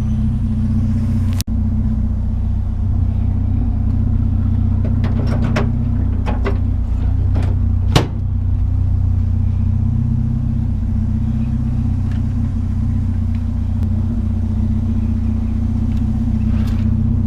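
Vehicle driving: steady engine and road rumble, with a sharp click about eight seconds in.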